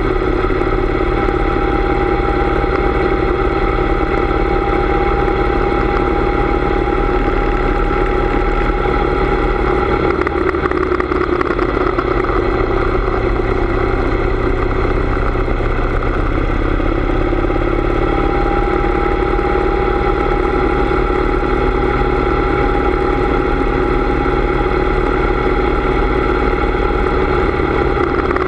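Harley-Davidson motorcycle's V-twin engine running steadily while riding, its pitch dropping for several seconds about a third of the way through and then coming back up.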